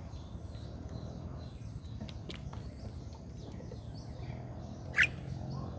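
Low steady background noise with faint scattered chirps, and one short, loud animal call about five seconds in.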